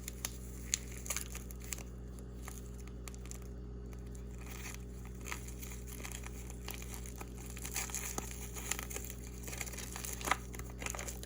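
Plastic food packaging crinkling and rustling as it is handled and torn, with scattered light clicks.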